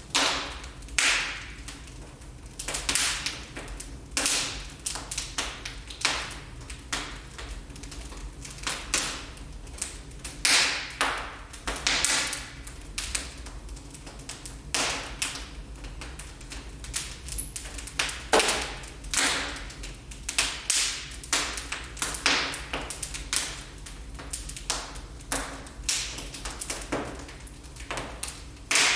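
Wood fire burning in a fireplace, crackling with irregular sharp pops and snaps, some louder than others, over a low steady background.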